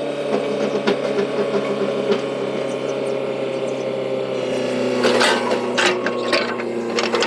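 An engine running steadily, its hum shifting slightly about four and a half seconds in, with a quick run of sharp metallic clicks and knocks about five to six and a half seconds in.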